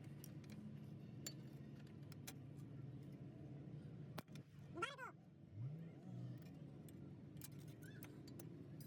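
Steady low hum with scattered light clicks and taps. About five seconds in comes one short call that rises and falls in pitch.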